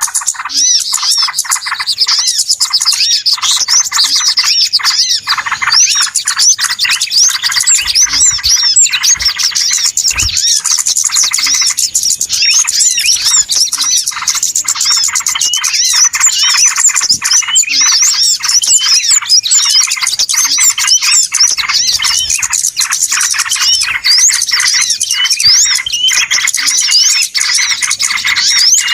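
A flock of small songbirds chirping and twittering all at once, in a dense, unbroken chatter of overlapping high calls. This is a noisy bird-lure recording of the kind played to draw small birds in.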